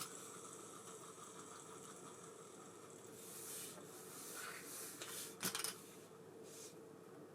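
Abu Garcia Ambassadeur 5500C baitcasting reel being handled: a click, then a faint steady whir for about three seconds, then rustling and a sharp click about five and a half seconds in.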